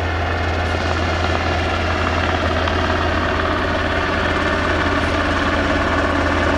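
A helicopter running steadily close by, a continuous low hum with steady engine tones over it.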